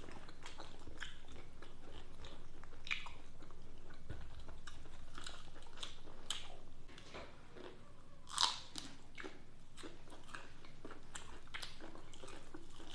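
Close-up crunching and chewing of crispy fried shrimp: a string of irregular crisp bites and chews, with one louder crunch past the middle.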